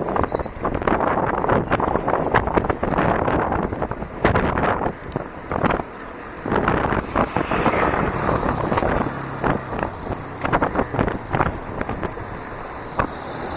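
Bicycle ridden over a rough dirt trail: tyre noise with frequent sharp rattles and knocks from the bike over bumps, and wind buffeting the microphone.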